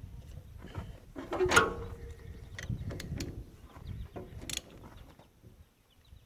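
Hand tools clinking and scraping against the steel parts of a haybine's crimper drive during reassembly. About one and a half seconds in there is a loud metallic clank that rings briefly.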